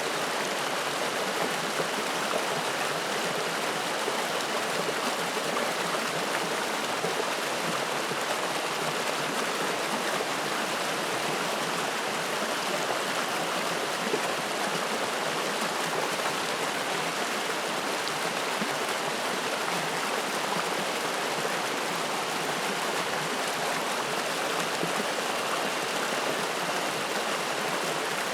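Spring-fed mountain stream running over rocks, a steady rushing and splashing of water.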